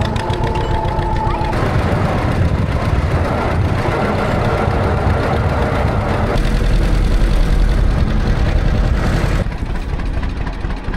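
John Deere tractor engine running as it pulls a disc harrow through the field; the engine note deepens and grows stronger about six seconds in and eases off near the end.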